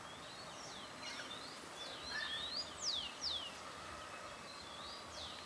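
Wild birds calling: a string of short, high, sliding chirps, several overlapping, over a steady outdoor background hiss. The chirps are loudest around two to three seconds in.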